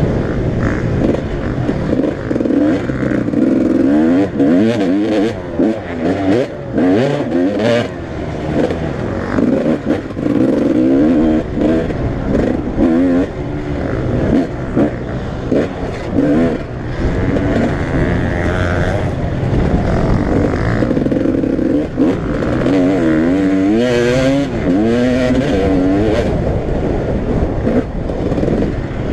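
Several motocross bikes' engines running hard, overlapping, their pitch rising and falling over and over as riders open and close the throttle around the track.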